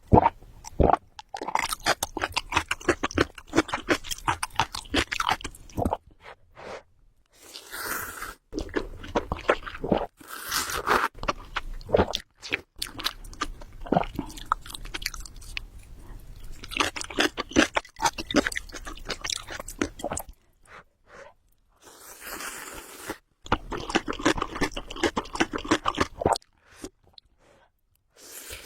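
Close-miked chewing of spicy ramen noodles: quick runs of wet mouth clicks, broken by a few short pauses.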